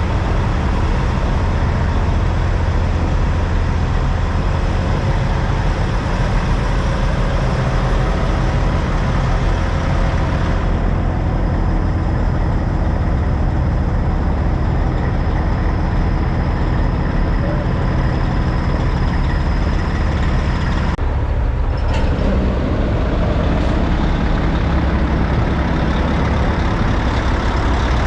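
Heavy diesel engines of semi trucks running, a loud, steady low rumble, with abrupt shifts in tone about a third and three quarters of the way through.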